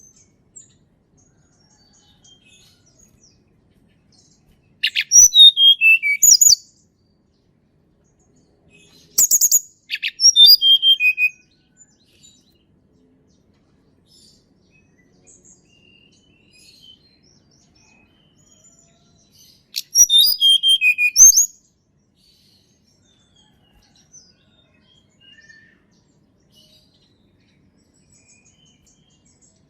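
Tledekan gunung, a blue flycatcher, singing three short phrases of quick, clear notes that fall in pitch. The phrases come about 5, 9 and 20 seconds in, with faint chirps between them.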